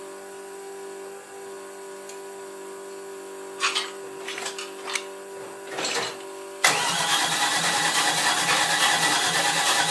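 An engine being started: a few short bursts of cranking, then about two-thirds of the way in it suddenly catches and runs loudly and steadily.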